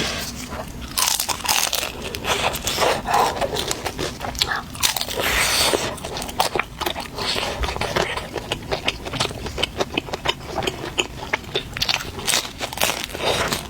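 Close-up biting and chewing of a crisp-skinned chicken thigh roll, with many sharp crunches and crackles. There is a denser stretch of crunching about halfway through.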